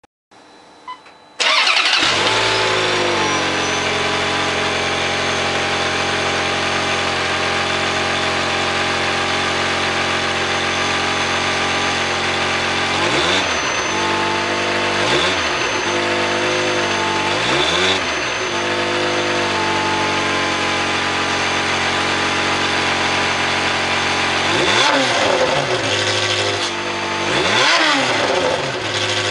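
Ferrari F355's V8 engine breathing through an aftermarket exhaust, starting up about a second and a half in, its revs settling to a steady idle. Later it gives five quick throttle blips, three short ones and then two bigger ones near the end, each rev rising and falling back to idle.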